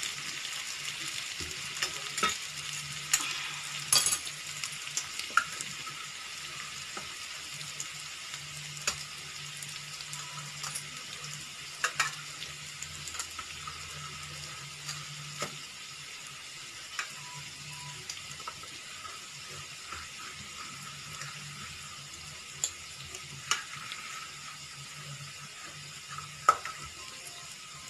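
Alu vadi pieces of colocasia leaf and moong dal shallow-frying in oil in a non-stick pan: a steady sizzle with scattered sharp pops and crackles, a little louder in the first second or so.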